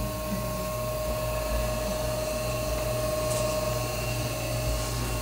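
Steady mechanical hum with a constant whining tone over a low drone.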